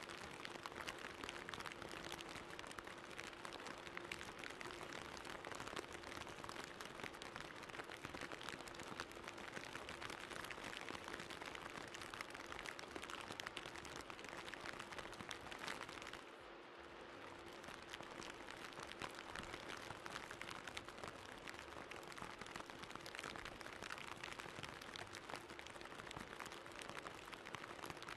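Steady rain falling, a dense crackling patter of drops, with a faint steady hum underneath. The rain noise drops away briefly about sixteen seconds in, then returns.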